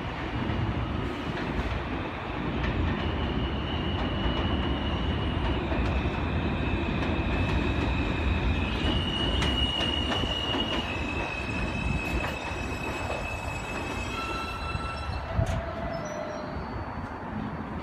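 A New York City subway train running through the station with a steady rumble of wheels on rail. Several high, steady squealing tones hold and then step to new pitches, and a few lower tones come in near the end.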